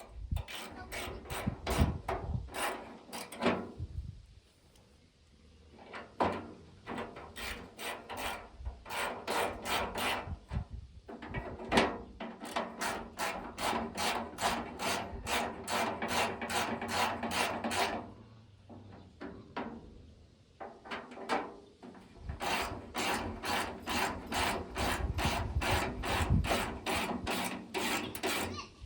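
Rhythmic back-and-forth scraping strokes of a hand tool on a part, about three strokes a second, pausing twice.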